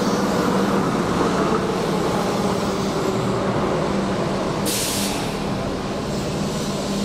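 Keihan electric commuter train running past along the platform, a steady rumble of wheels with a low motor hum. About four and a half seconds in there is a short hiss of air.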